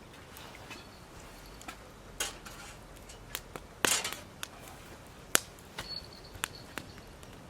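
Wood fire crackling, with irregular sharp pops and snaps and a short hissing flare-up about four seconds in.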